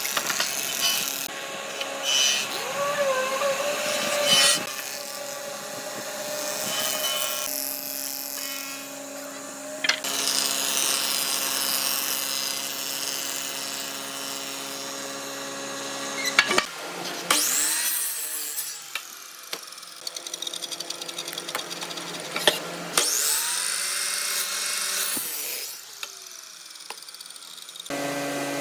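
Power tools working wood, in several short clips cut together: steady machine hum and whine with sharp knocks, and whines that rise and fall as a motor speeds up and slows.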